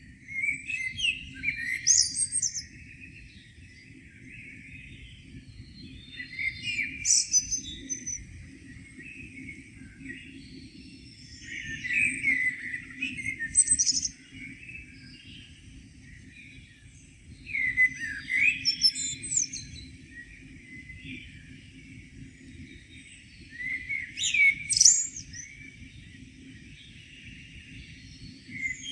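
A songbird singing in the morning: short phrases of about two seconds, each ending in higher twittering notes, repeated five times with pauses of a few seconds between. A steady low rumble runs underneath.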